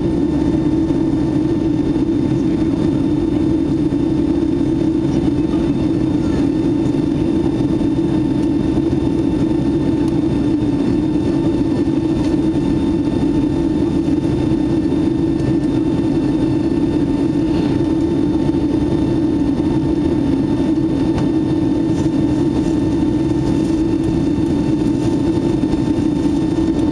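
Steady cabin noise inside a Boeing 757-200 during the climb: a constant low engine and airflow rumble with a faint steady hum above it.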